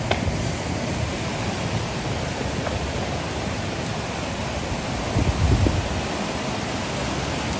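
Steady rush of fast-flowing floodwater. A few low thumps about five seconds in.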